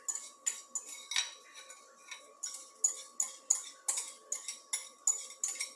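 A spoon scraping and knocking against a container as yogurt is spooned out into a mixing bowl: a run of short, sharp clicks, about three a second.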